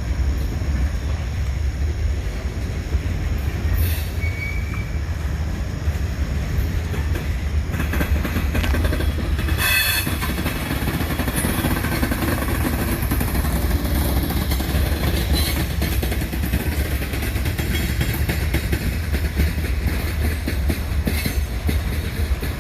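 Freight train of tank cars rolling past with a steady deep rumble and wheels clacking over the rail joints. About ten seconds in, the wheels give a brief high-pitched squeal.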